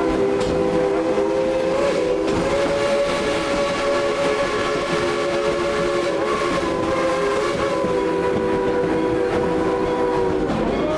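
Steam locomotive whistle blowing one long, steady chord of several notes that cuts off near the end, over the rumble and clatter of the moving train.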